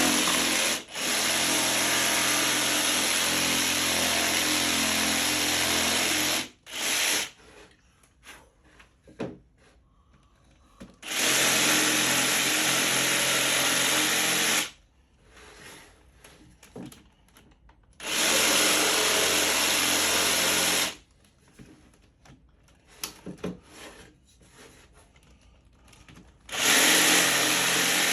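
A power tool motor running in bursts of a few seconds on wood, switched on and off repeatedly with short quiet gaps and small knocks between the runs.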